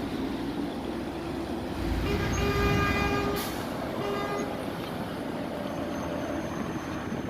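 Vehicle horn sounding twice over the steady running of idling truck engines: a blast of a little over a second about two seconds in, then a short toot about four seconds in.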